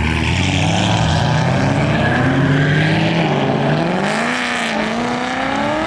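A car engine accelerating away as cars leave the meet, its pitch climbing and dropping back several times, as with a run through the gears.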